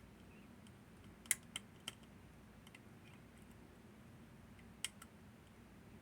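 Small sharp clicks of lock picking tools working the levers inside a Northern Telecom NE-22 six-lever lock: three clicks in quick succession about a second in, a single one near five seconds, and faint ticks between.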